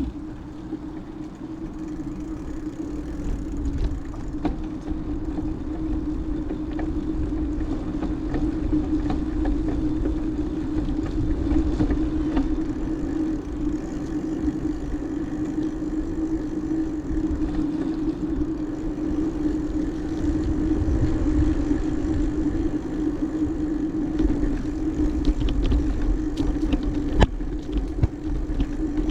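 Riding noise from a moving bicycle: wind rumbling on the camera's microphone with a steady low hum underneath, getting louder after the first few seconds, and a few light clicks.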